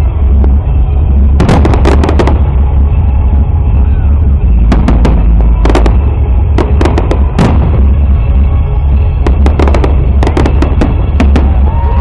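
Fireworks display: aerial shells bursting in irregular clusters of sharp bangs and crackles, over a constant heavy low rumble.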